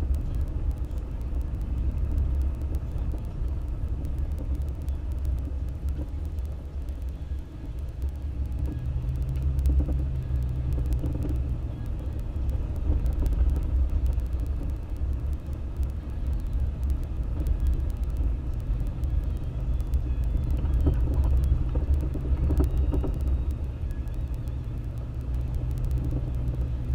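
Toyota FJ Cruiser's 4.0-litre V6 and tyres giving a steady low rumble, heard from inside the moving vehicle. A low engine hum comes up about eight seconds in and again from about twenty seconds in.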